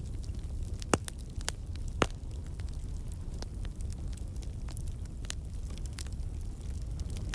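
Wood campfire burning with a steady low rumble of flame and irregular sharp crackles and pops from the logs, the loudest about a second in and again about two seconds in.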